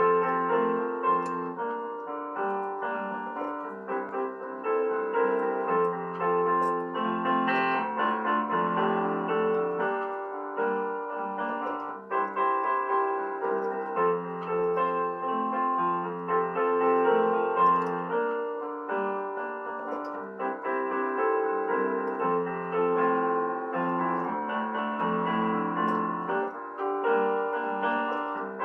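Piano music: a slow, gentle piece of sustained notes and chords that keeps going without a break.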